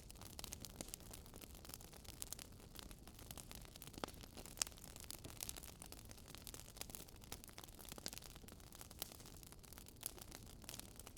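Campfire wood crackling and popping: irregular sharp snaps over a soft, steady hiss of burning.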